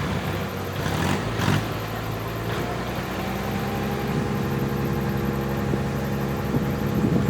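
Backhoe loader's diesel engine running steadily, its note shifting about a second and a half in, with a few knocks in the first couple of seconds.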